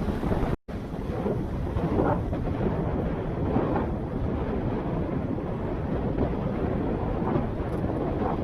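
Wind buffeting the camera microphone, a loud, steady low rumble that cuts out briefly about half a second in.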